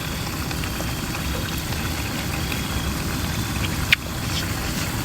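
Steady low rumble of an idling engine, with one sharp click about four seconds in.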